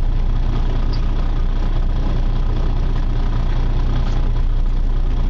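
Charter boat's engine running steadily: a low, even drone.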